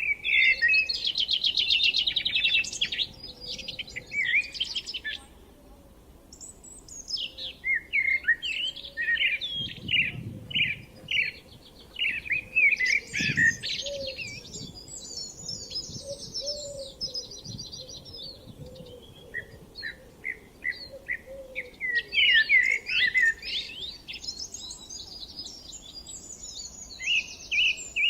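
Songbirds singing: bursts of quick chirps and trilled phrases, one after another with short gaps between songs.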